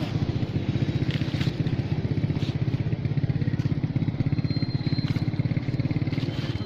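A small engine running steadily with a rapid, even putter, with a few light clicks over it.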